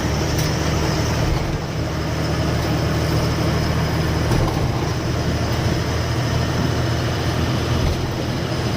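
Truck engine running steadily while driving, with road noise, heard from inside the cab as a continuous low hum.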